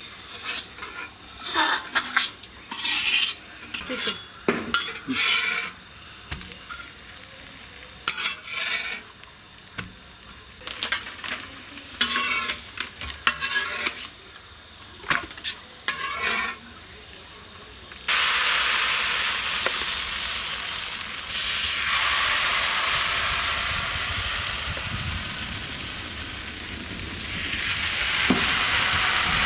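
A metal spoon stirring and scraping food in a cooking pot, in separate strokes, with light sizzling between them. About two-thirds of the way through, a steady loud hiss starts abruptly and carries on to the end.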